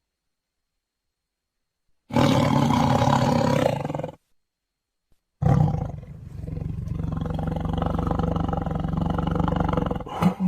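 Tiger roaring: after a short silence, one roar of about two seconds, then after a pause a second, longer roar that holds a steady low pitch for about four seconds. A brief click comes near the end.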